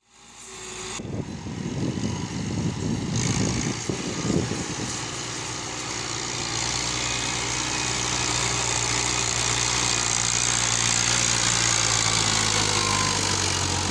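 Massey Ferguson 375 tractor's diesel engine running while hauling a heavily loaded trolley. It is rough and uneven for the first few seconds, then settles into a steady drone.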